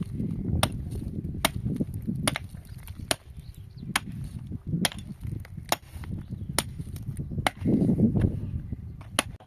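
Sharp blows of a hand tool struck over and over at a steady pace, about one a second, with a low rumble underneath.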